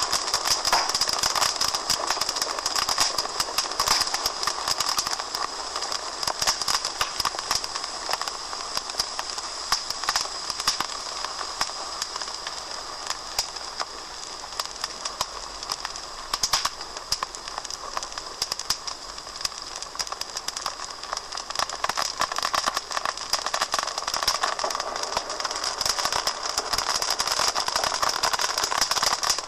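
Wood fire burning in a fireplace, crackling and popping in a dense, irregular stream of snaps over a steady hiss.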